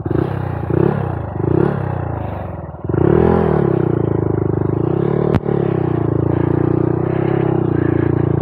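Honda Monkey 125's single-cylinder engine revved briefly twice, then pulling away with a rise and fall in pitch about three seconds in and running steadily on, with one sharp click a little after five seconds.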